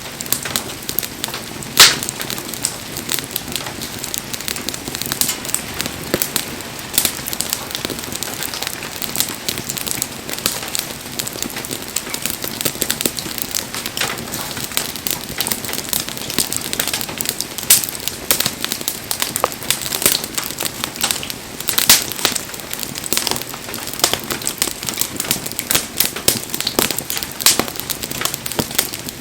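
Wood fire crackling steadily, with frequent sharp pops from the burning logs; one loud pop about two seconds in and another about two-thirds of the way through.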